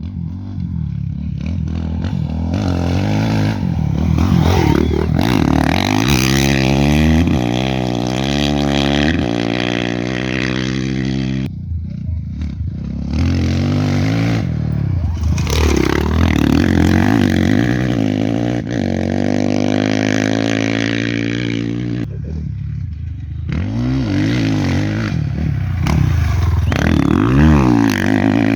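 Off-road race motorcycles passing one after another at full speed, engines revving and shifting up through the gears, pitch rising as each one approaches and falling as it goes by. Three passes, with short lulls between them.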